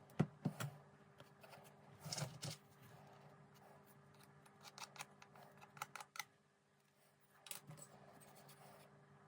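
Faint clicks, taps and short scrapes of model boat hull parts being handled and pressed together during gluing. There is a cluster of knocks near the start, a brief scraping rustle about two seconds in, and a few scattered clicks later.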